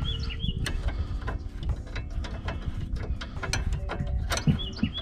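Hand ratchet wrench clicking in short, irregular runs while working a nut on a rear strut assembly.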